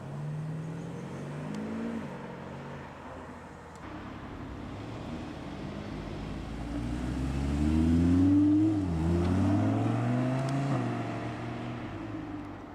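Audi cars pulling away: first one engine note rises briefly, then a louder car accelerates past with its engine note climbing, dropping with a gear change about nine seconds in, and climbing again before it fades.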